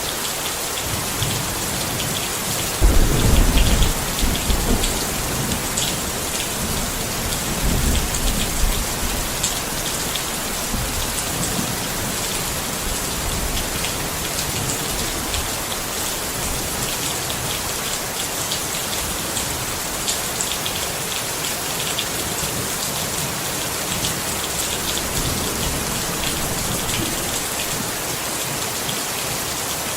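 Steady rain pattering on a tent. Two short low rumbles of thunder come through, one about three seconds in and another about eight seconds in.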